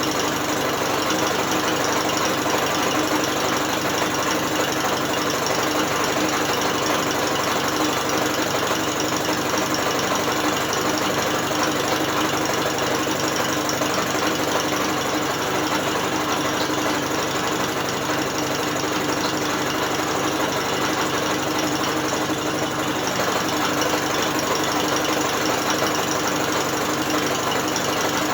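British Seagull outboard motor being turned over by an electric drill, running steadily with an even mechanical whirr and rattle.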